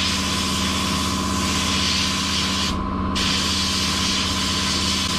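Sandblasting cabinet blasting glass bead media at a painted hinge: a steady hiss of air and abrasive, with a motor humming steadily beneath. The blast stops for a moment a little before the middle, then resumes.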